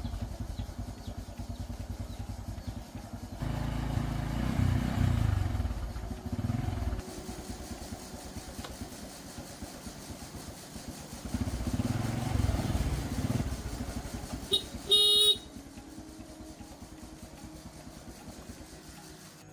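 1980s Honda motorcycle engine running and being revved up and down several times, with a short horn beep about fifteen seconds in.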